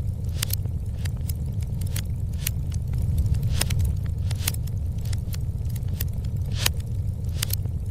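Wood fire crackling and popping at irregular intervals over a steady low rumble, with a few louder pops.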